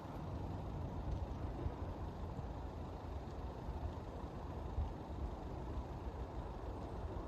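Steady low rumble of an approaching LNER passenger train.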